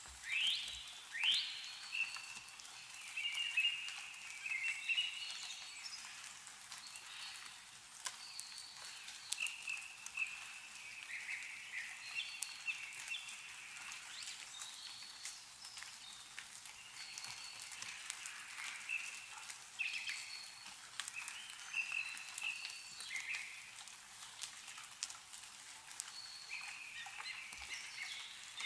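Songbirds singing and calling in repeated short phrases, with scattered drips of melting snow falling from trees.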